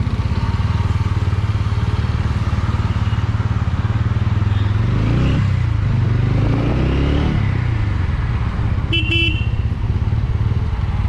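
Motorcycle engine running as the bike rides off in traffic, its pitch rising and falling a few times midway through as it pulls through the gears. A short vehicle horn beep sounds near the end.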